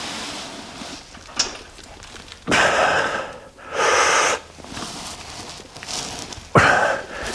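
Heavy, effortful breathing of a lifter during a bench press set: two long breaths a few seconds in, then a sharp, forceful exhale near the end.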